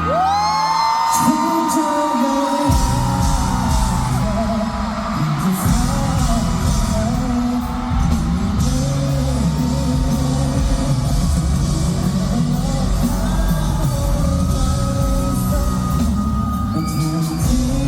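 Live pop-rock band with a lead singer, amplified in a concert hall: a held sung note rises at the start, then heavy bass and drums come in about two and a half seconds in and carry on under the vocal, with shouts from the audience.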